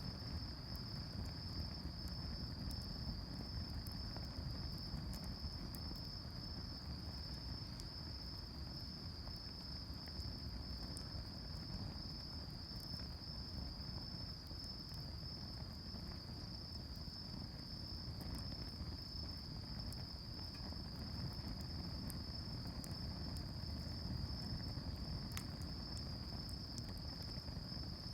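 Crickets chirring without a break on one high, steady pitch, with faint scattered crackles over a low steady rumble.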